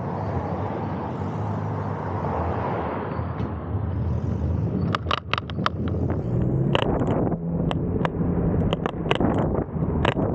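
Wind and rumble from a bike ride in motion, with a run of sharp clicks and knocks from about five seconds in, as from bumps and rattles along the way.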